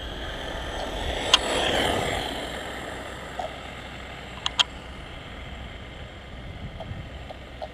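A vehicle going by: a rushing sound that swells over the first two seconds and then fades away, with a sharp click about a second and a half in and another near the middle.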